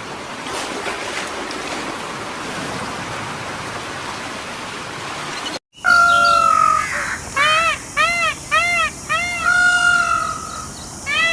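A steady rushing noise for about five and a half seconds, then after a sudden break a crow cawing: a long caw, a quick run of short caws, another long caw, and more caws near the end.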